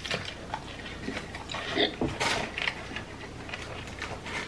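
Close-up chewing of a mouthful of loaded tortilla-chip nachos: irregular crunches and mouth sounds, loudest about two seconds in.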